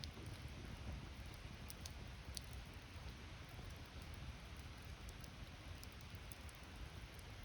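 Wood campfire burning, with sparse faint crackles and pops over a low steady rumble.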